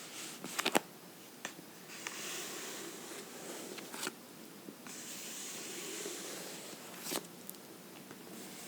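Fingernails scratching softly across a book in two long strokes of about two seconds each, with sharp taps on the book between them, a quick cluster of taps under a second in.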